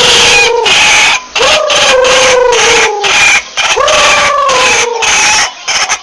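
White-breasted waterhen calling repeatedly, a loud lure-call recording of its ruak-ruak calls. There are about three calls, each a pitched note about a second long that hooks up at the start and then slides slowly down, with a harsh, rough edge.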